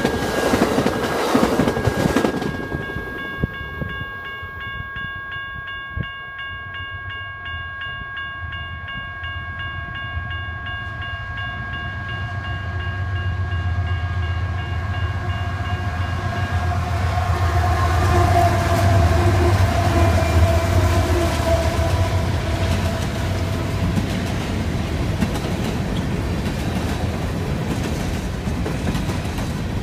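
The last Amtrak Southwest Chief Superliner cars rush past for the first couple of seconds. Then a train horn sounds as a steady chord of several notes until about halfway. A CSX coal train's diesel locomotives approach and pass with a deep engine rumble that peaks about two-thirds of the way in, and the loaded coal hoppers roll by after them.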